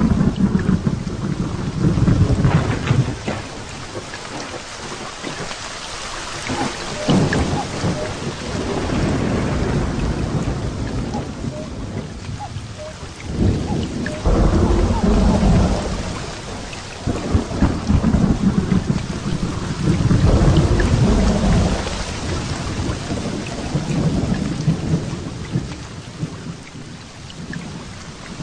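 Heavy rain pouring steadily while thunder rumbles again and again, in long low rolling peals several seconds each.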